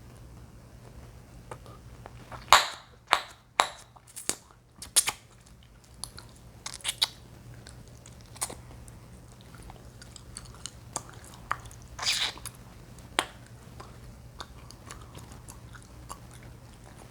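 Chewing gum being chewed and popped close to the microphone: a quick run of loud, sharp pops a few seconds in, another loud pop about twelve seconds in, and smaller clicks and smacks between them.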